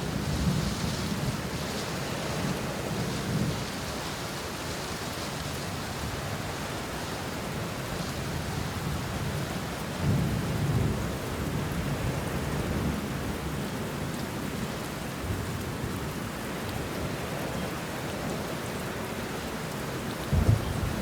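Steady rain falling on banana leaves and bushes, with low thunder rumbling that swells near the start and again about halfway through. A few sudden low thumps near the end.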